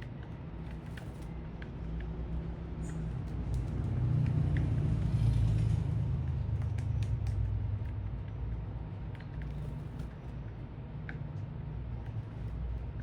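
Low rumble of road traffic, with one vehicle passing that swells loudest about four to six seconds in and then fades.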